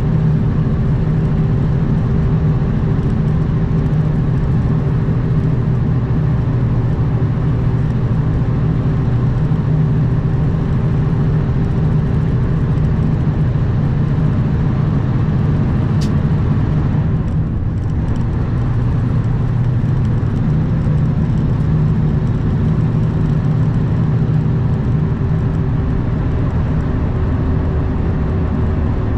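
Semi truck's diesel engine running steadily at cruise, heard with road and wind noise, a steady low drone. A single sharp click sounds about halfway through.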